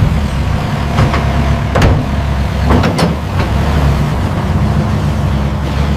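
Heavy diesel machine engine running steadily under load, with a handful of sharp clanks about one to three seconds in.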